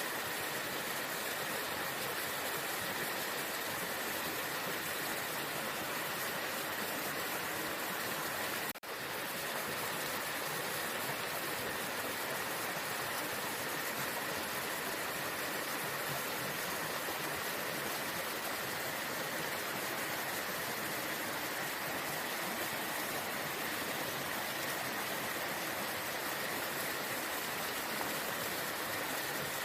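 Waterfall: a steady rush of falling water, with one momentary break about nine seconds in.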